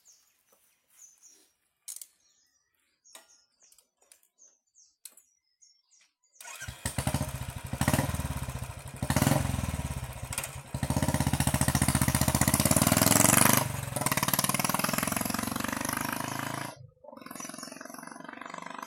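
Royal Enfield Classic 350's single-cylinder engine running through an aftermarket short-bottle exhaust, starting about six seconds in with a loud, even thudding beat. The sound builds in surges to its loudest, drops suddenly, cuts out for a moment near the end, then carries on more quietly.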